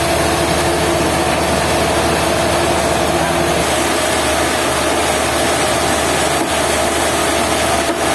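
Sawmill running and cutting wood: a steady, loud machine noise with a constant hum.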